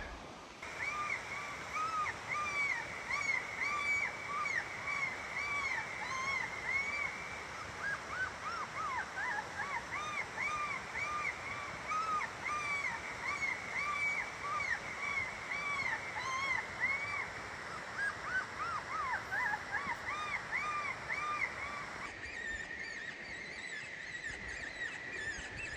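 FREQ electronic predator caller playing canine sounds through its speaker: a long, rapid string of short, high yelping notes, each rising and falling, about two to three a second. Near the end it changes to a steadier, drawn-out high call.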